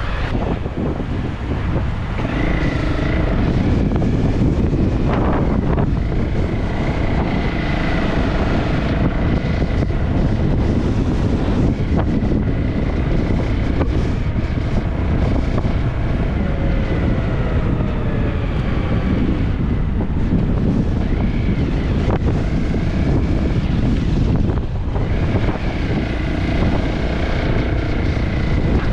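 Heavy wind rushing and buffeting the microphone over the steady noise of a moving vehicle, with faint pitched tones drifting up and down.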